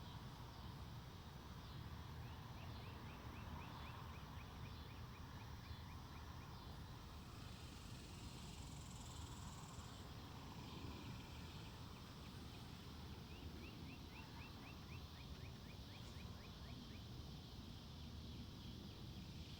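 A wild bird calling twice, each time a series of quick, evenly spaced high notes, about four a second, lasting around four seconds. Underneath is a faint, steady low rumble of wind.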